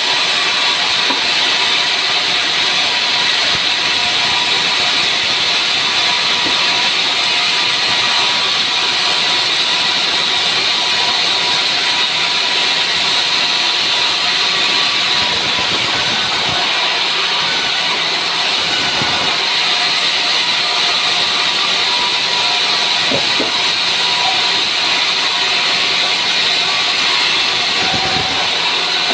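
Sawmill saw cutting through dry pine log, a steady loud hissing rasp of the blade in the wood over the running machine.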